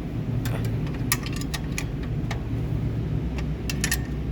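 Wrench clinking and clicking against the belt-tensioner bolt as it is worked loose: irregular sharp metal clicks over a steady low hum.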